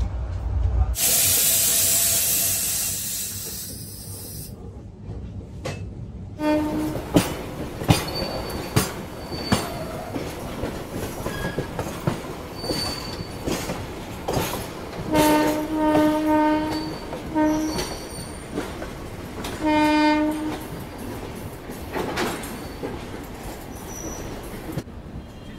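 Passenger train rolling slowly over points and rail joints, its wheels clicking with short squeals, after a few seconds of rushing noise at the start. A train horn sounds a long blast and two short ones in the second half.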